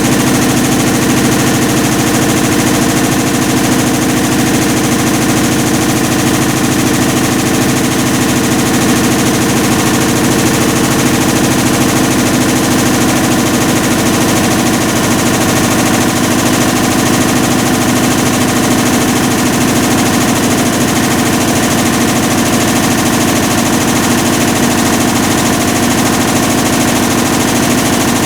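Hitachi BeatWash BW-D8KV washing machine running with a loud, steady, fast rattling grind from its drive, the abnormal noise of a failed clutch, which the owner blames on overloading the drum.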